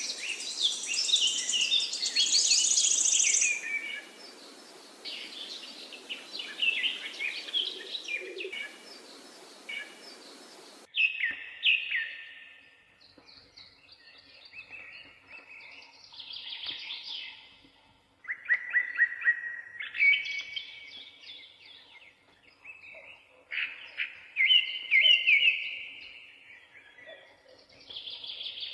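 Parakeets chirping and chattering in rapid, short calls. A background noise under the calls cuts off suddenly about eleven seconds in, and the chirping carries on against a quieter background.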